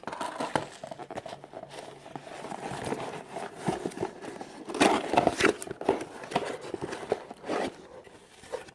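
Plastic packaging crinkling and rustling as it is handled, with irregular small clicks and a few louder crackles about five seconds in and near the end.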